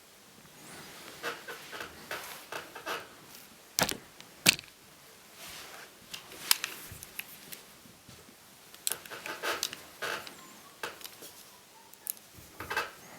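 Irregular small clicks, taps and scraping of laptop parts and tools being handled during disassembly and cleaning, with two sharper knocks about four seconds in.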